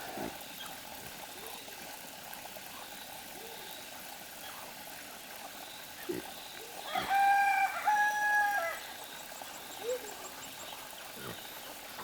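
A rooster crowing once, about seven seconds in: a loud call held in two drawn-out parts.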